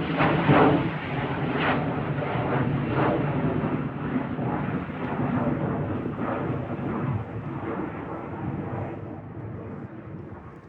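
Airplane engines at takeoff power: a loud, crackling roar that gradually fades as the aircraft climbs away.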